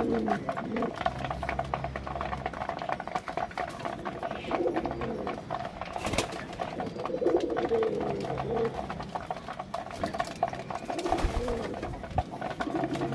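Domestic pigeons cooing, several low rolling coos a few seconds apart, over many small clicks and scratches.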